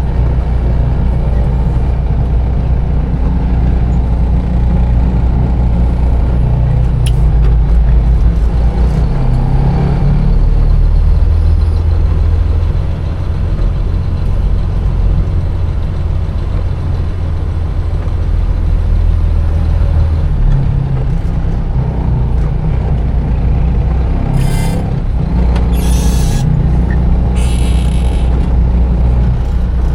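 Container truck's diesel engine running, heard from inside the cab, its low drone stepping up and down in pitch a few times. Near the end, three short hisses of the air brakes.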